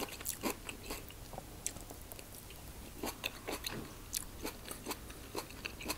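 A person chewing a mouthful of quinoa salad with cucumber, corn and tomato, close to the microphone: a run of small, irregular crunches and clicks.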